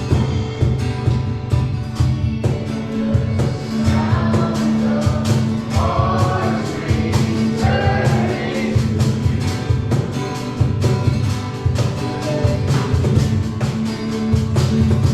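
Live worship band playing, with bass and drums carrying a steady beat and voices singing over it.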